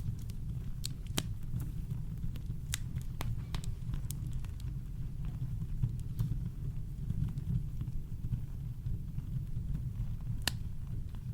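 Campfire crackling: irregular sharp pops and snaps over a steady, deep low rumble of brown noise.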